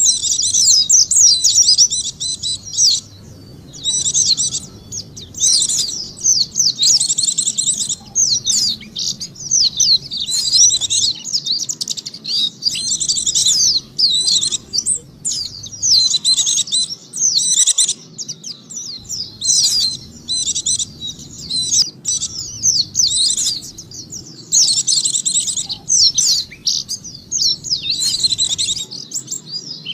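White-eye (pleci) song played as a bird-lure recording: fast, high twittering in phrases of one to two seconds separated by short breaks, repeating over and over.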